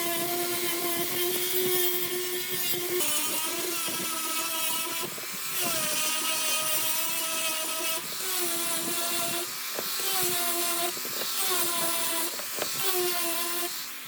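High-speed power carving tool whining against wood. Its pitch sags briefly about half a dozen times, as under load, and it cuts off near the end.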